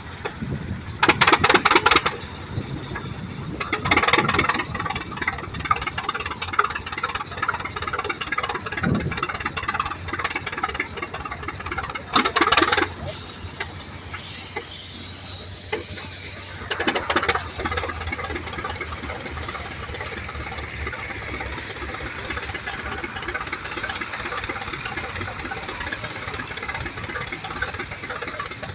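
Antique tractor engine running steadily, with a few short, louder bursts of noise scattered through, the loudest about a second in and again around twelve seconds.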